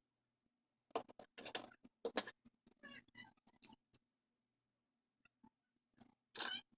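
Quick runs of sharp clicks and light knocks, in two clusters, over a faint steady hum.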